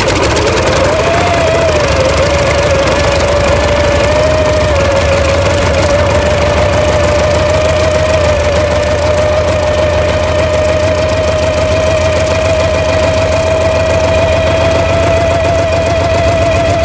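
Kamov Ka-26's nine-cylinder radial piston engines running loud and steady just after coming to life. The pitch wavers for the first couple of seconds, then settles and creeps slowly higher.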